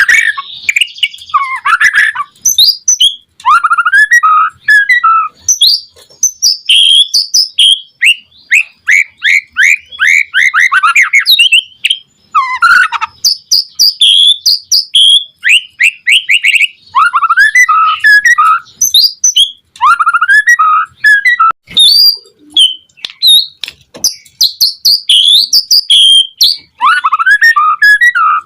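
White-rumped shama (murai batu) in full song: a long run of varied phrases of sweeping whistles, chirps and fast trills of repeated notes, broken by short pauses.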